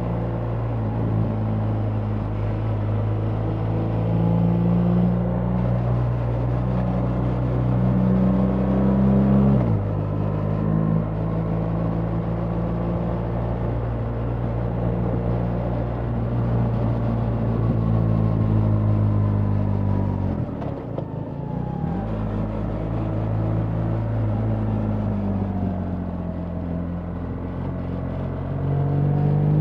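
BMW R 1300 GS boxer-twin engine running under way, heard from the rider's position. Its pitch drops sharply about a third of the way in, as at a gear change, dips briefly about two-thirds in, then rises again near the end as the bike accelerates.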